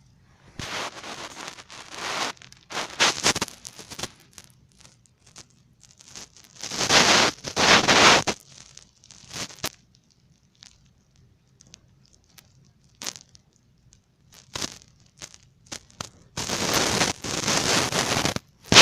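A comforter's fabric rustling and scraping as cats paw and pounce on it, in three longer bursts with short scrapes and ticks between. A single sharp knock near the end is the loudest sound.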